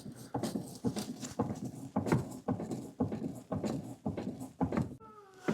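A rapid, irregular series of light knocks or taps, about two to three a second, with a short rising tone near the end.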